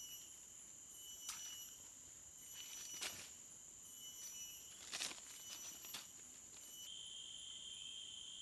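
Insects buzzing steadily in several high continuous tones, one growing louder near the end, with a few short knocks or rustles scattered through.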